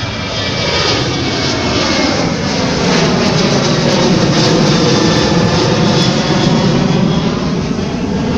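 Jet airliner's engines passing overhead on its departure climb: a loud rush of engine noise that swells to its loudest around the middle and begins to ease near the end, with tones sweeping in pitch as it passes.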